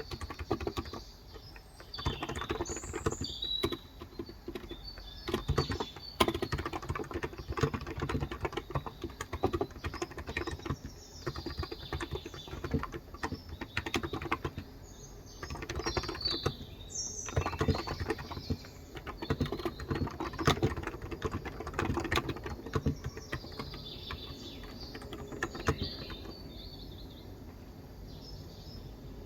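Typing in quick runs on a Cox Endeavor electrostatic capacitive (Topre-style) tenkeyless keyboard with 35 g switches, giving soft, muffled keystrokes. Birds chirp in the background now and then.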